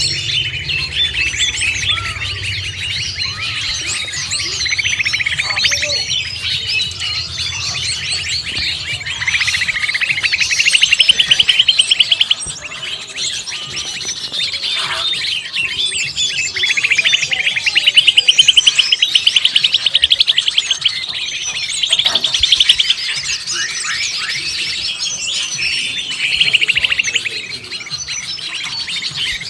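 Dense chorus of many small birds chirping and chattering at once, mixed with greater green leafbird calls, from a composite 'noisy birds' lure recording. Several loud, rapid trills of a couple of seconds each break out over the chatter, and a low hum runs under it for about the first third.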